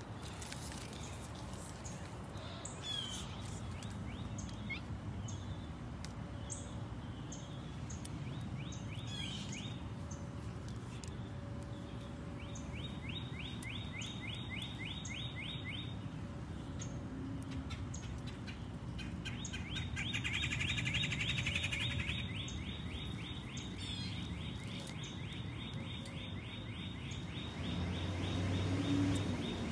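Wild birds chirping and singing, with long, fast repeated trills about halfway through and again from about two-thirds of the way in. Under them is a steady low background rumble that grows louder near the end.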